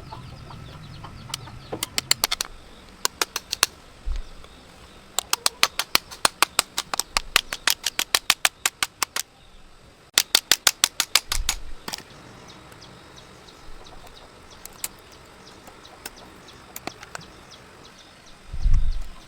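Runs of quick, sharp clicks, about seven a second, in several bursts, with a few dull low thuds and a louder thud near the end.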